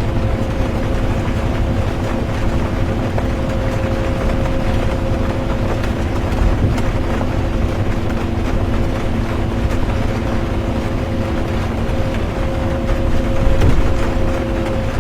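Inside a moving bus: steady low engine and road rumble with a constant drivetrain hum and a few faint rattles.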